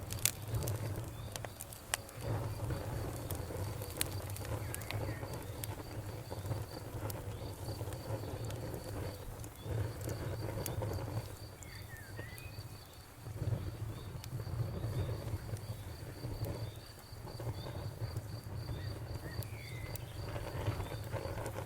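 Wood fire burning with a low rumble of flames and scattered sharp crackles and pops. A cricket chirps steadily and faintly behind it.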